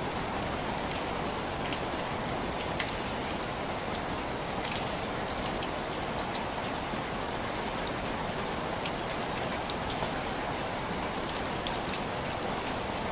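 Steady rain falling, with scattered sharp drops tapping on window glass.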